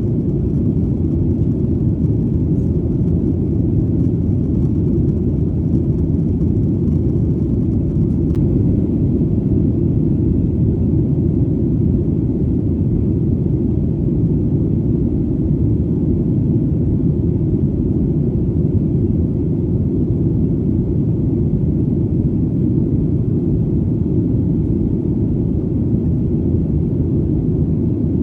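Airplane engine drone: a steady, deep rumble with almost nothing in the high end.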